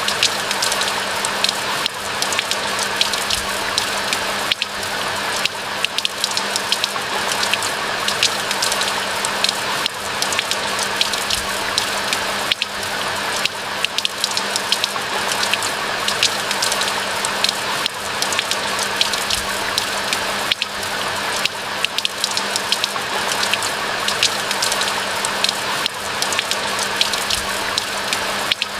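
Steady rain falling in a pine forest: a constant hiss dense with many close, sharp drop hits. A faint low steady hum runs underneath.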